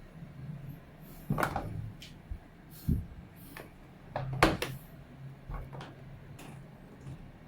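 A few separate knocks and clacks from the washing machine's lid and panel being handled, the loudest about four and a half seconds in, over a low hum that comes and goes.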